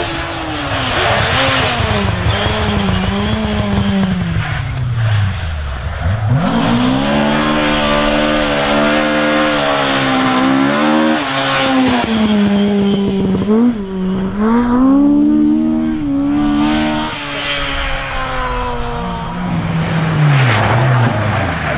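Rally car engine revving hard, its pitch climbing and falling again and again through gear changes and lifts, with a deep drop about six seconds in and again near the end. A steady rush of tyre noise runs underneath.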